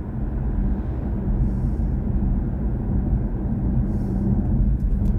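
Steady low road and tyre rumble heard inside the cabin of a BMW i4 M50 electric car cruising along, with a constant low hum beneath it.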